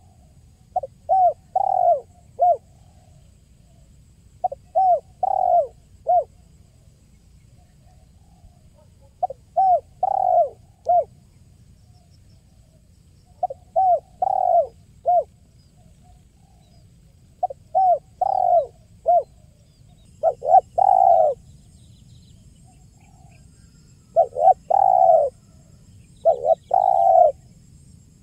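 Spotted dove (tekukur) cooing: phrases of a few short clipped notes around a longer coo, repeated about every four seconds and coming closer together near the end.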